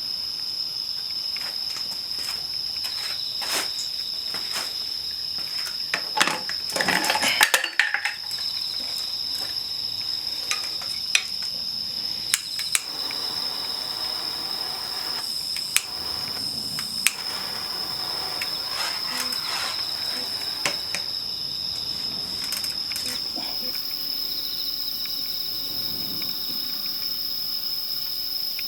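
Crickets trilling in one steady high tone, with scattered sharp clicks and a short burst of clattering about six to eight seconds in.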